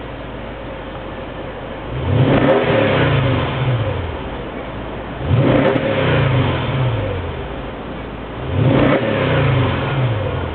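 Mercedes-Benz W221 S500's V8 exhaust through a Carlsson rear muffler, idling and revved three times, each blip rising quickly and falling back to idle.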